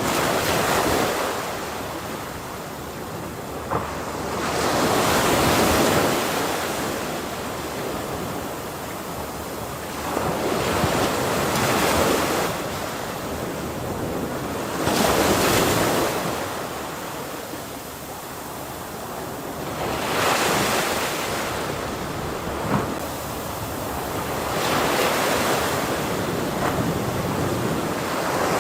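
Ocean waves breaking on a shore, the surf swelling and fading roughly every four to five seconds, with wind noise on the microphone.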